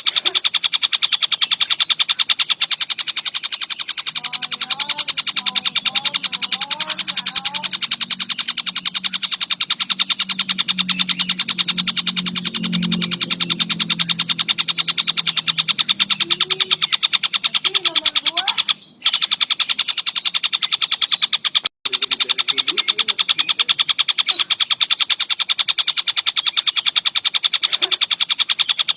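Kingfisher (tengkek buto) calling nonstop in a fast, dense, high-pitched chatter that repeats evenly without pause. The sound cuts out briefly twice, about two-thirds of the way through.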